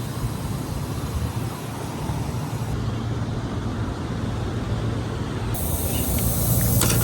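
A car engine running steadily with a low hum, getting a little louder near the end.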